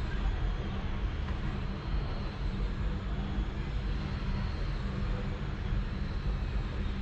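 Domestic cat purring steadily: a continuous low rumble.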